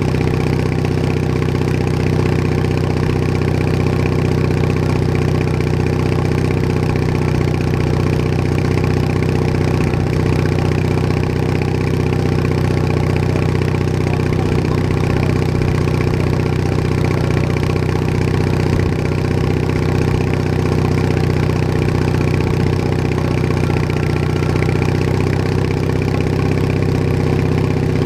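Bolens HT20 garden tractor's engine running steadily at an even, unchanging speed.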